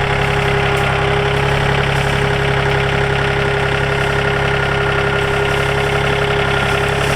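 An engine running steadily at an even speed, with a constant hum and no change in pitch.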